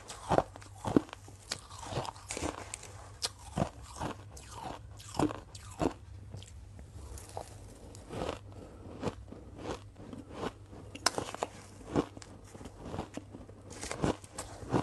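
Ice being bitten and chewed close to the microphone: irregular, sharp crunches, several a second, some louder than others, over a faint low hum.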